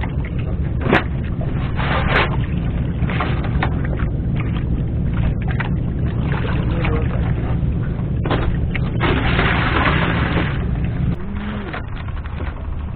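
Boat engine running steadily with a low hum that drops off about eleven seconds in. Several gusts of wind noise rush over it, the longest about nine seconds in.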